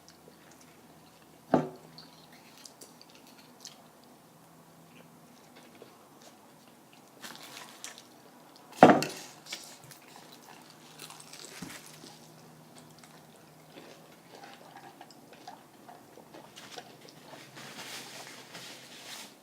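Quiet eating sounds: chewing and the handling of food, paper and containers, with scattered small clicks and rustles. Two sharp knocks stand out, one about a second and a half in and a louder one about nine seconds in.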